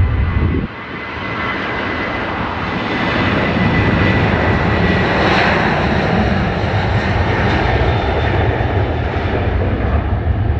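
Airliner passing overhead, its engine roar swelling to a peak about five seconds in and then slowly fading, with a thin whine over the roar. A heavy low rumble stops suddenly just under a second in.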